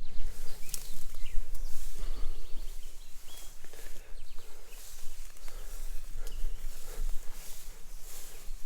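Footsteps of a person walking outdoors, about one and a half steps a second, over a steady low rumble, with a few faint chirps.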